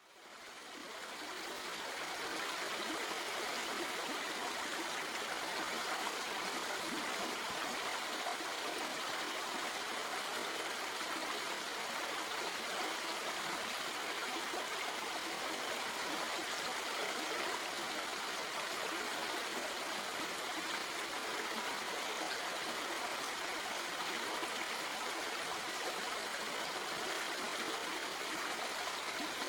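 Stream water flowing over rocks, a steady rushing and burbling, fading in over the first couple of seconds.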